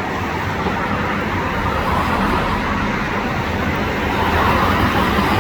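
Steady roar of a passing jet airliner, an even rushing noise that grows a little louder near the end.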